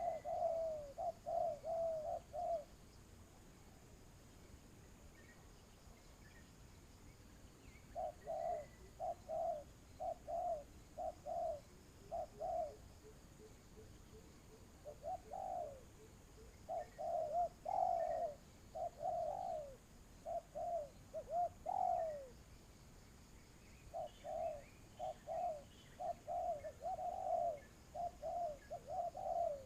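Spotted dove cooing: bouts of short, low coo notes repeated in quick runs, with pauses of a few seconds between bouts.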